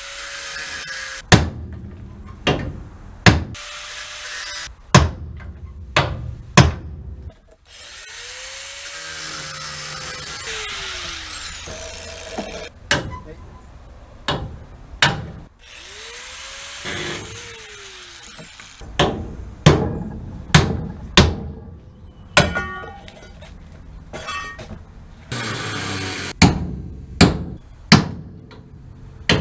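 A power tool spins up and winds down a few times while bolts are taken out of a truck frame's crossmember. Many loud sharp metallic knocks come in between.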